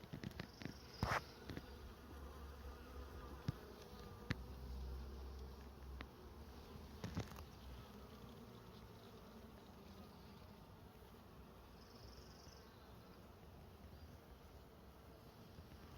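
Honeybees buzzing faintly and steadily around an open hive, with a few sharp clicks and knocks in the first half as a hive frame is handled and set back into the box.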